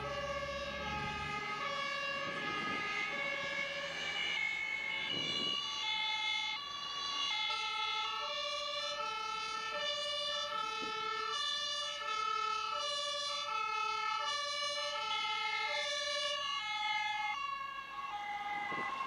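Two-tone sirens of German fire engines alternating steadily between a high and a low note. From about six seconds in, more than one siren sounds at once, out of step with each other.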